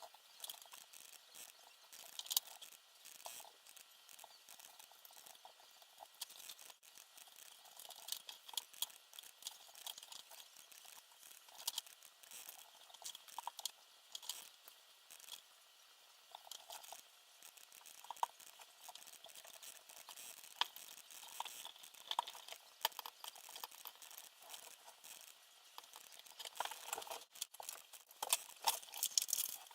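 Irregular light clicks, taps and rustles of small parts being handled during hands-on assembly work, with a denser run of clicks near the end.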